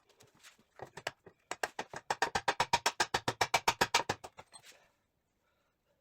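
Rapid, even run of sharp metallic taps, about nine a second for some three seconds, from a hammer striking a pin punch to drive a pin out of a Triumph TR6 gearbox.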